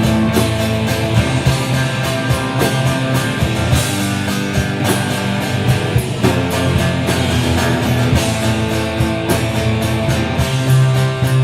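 Instrumental passage of a rock song between sung lines: electric guitar over bass and a steady drum beat.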